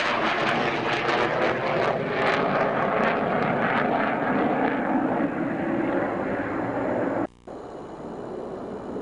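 Military fighter jet engine noise, loud and crackling, with its high end fading from about five seconds in as the jet draws away. About seven seconds in the sound cuts out abruptly for a moment, then resumes as a quieter steady jet rumble.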